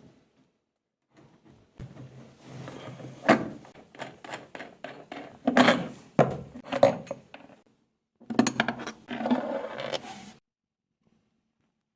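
Irregular knocks, clicks and scraping of hard parts and tools being handled during a washing machine bearing repair, stopping abruptly near the end.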